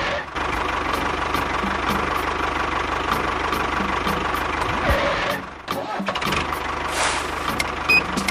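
A small motor running steadily with a regular light ticking, dropping away briefly about five and a half seconds in before running on, with two short high beeps near the end.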